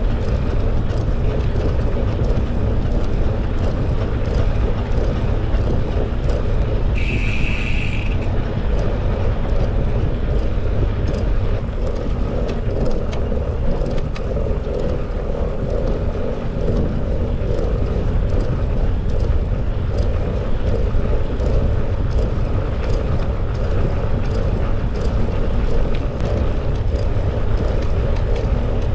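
Bicycle riding along a path: steady wind noise and tyre rumble, with frequent small clicks and rattles from the bike. A short high tone sounds for about a second, about seven seconds in.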